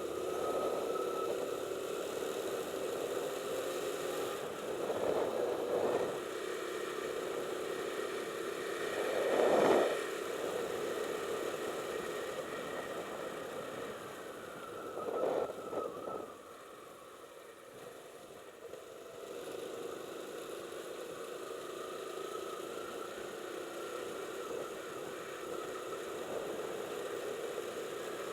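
Motorcycle engine running steadily while riding, with road and wind noise. Three brief louder swells come through, the loudest about nine seconds in, and the sound drops lower for a few seconds after the third before settling back to a steady run.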